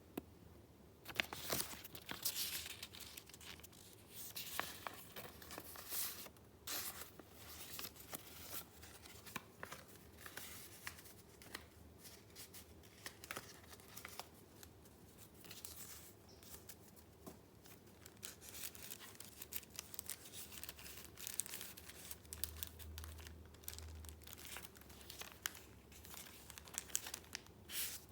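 Paper being handled and torn: repeated rustling and crinkling with short tearing strokes and scattered sharp clicks.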